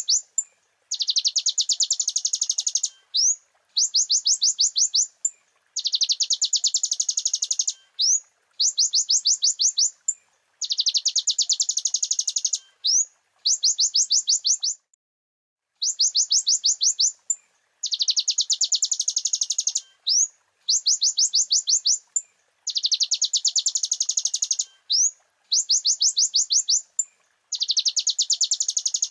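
Konin (kolibri ninja) sunbird song: repeated high phrases of very fast rising twitter notes, each lasting one to two seconds with short pauses between, and one longer pause about halfway.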